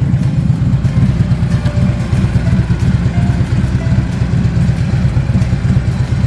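Motorcycle engine running loud and steady, its exhaust a fast, even, pulsing low rumble.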